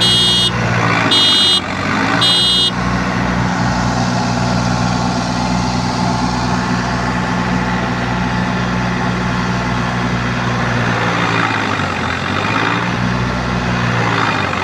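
Three short electronic beeps about a second apart, over a New Holland 5510's three-cylinder diesel engine running hard under load as the stuck tractor works to pull free. Its pitch sags for a moment near the end and then recovers.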